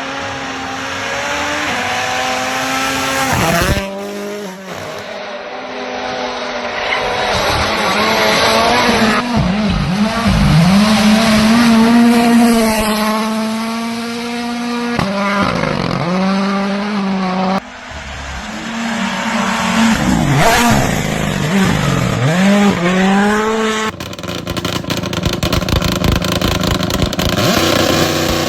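Rally cars at full attack, their engines revving hard and rising and falling in pitch through gear changes as they pass. The sound cuts abruptly between different cars three times.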